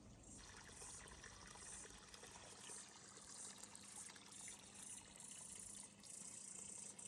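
Faint trickling, running water, with insects chirping high above it in swells that come and go every second or so.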